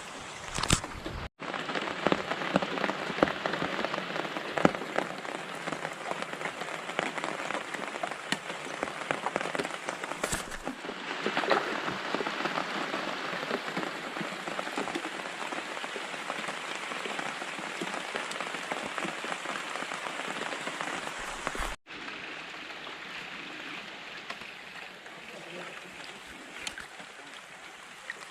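Rain falling steadily, a dense patter of many small drops, cutting out for a moment twice.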